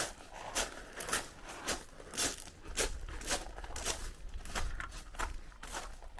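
Footsteps crunching on loose ground at a steady walking pace, a little under two steps a second.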